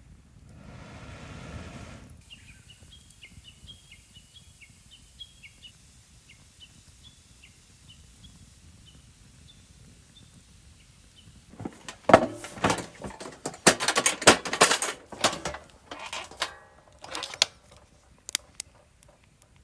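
A small bird calls outdoors with a run of short, repeated high chirps. About twelve seconds in, loud irregular clattering and knocking takes over for several seconds and then tapers off.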